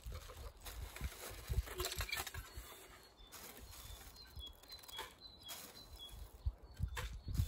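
Outdoor ambience with short, high bird chirps now and then, over irregular low thumps and rustles on the microphone.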